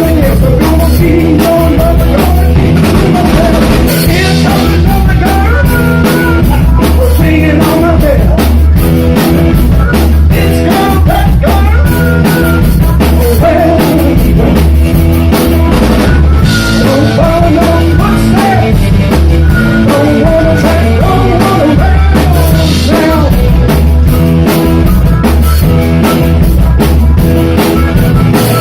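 Live rock band playing loud and heavily compressed, with vocals, electric guitar, bass and drum kit.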